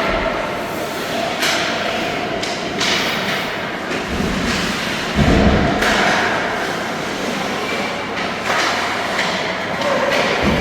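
Ambient noise of a youth team game in play, with scattered knocks and thuds over a steady wash of noise; the loudest is a heavy thud about five seconds in.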